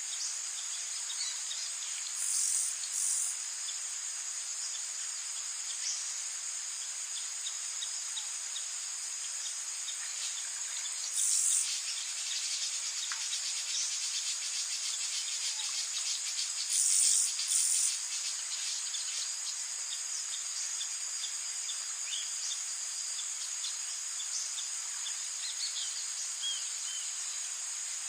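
Rainforest insect chorus: a steady, high-pitched drone of many insects. A few brief, louder, very high buzzing bursts rise over it about two, eleven and seventeen seconds in, with a few faint bird chirps.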